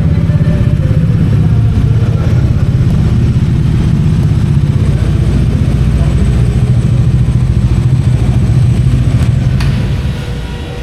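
Bajaj Dominar 400's single-cylinder engine running under way, a rapid low exhaust beat. The level drops about ten seconds in as the engine eases off.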